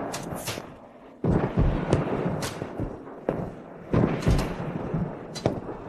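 A series of heavy booming hits, about eight in six seconds and unevenly spaced, each with a sharp crack on top, like dramatic drum and impact hits in a film score.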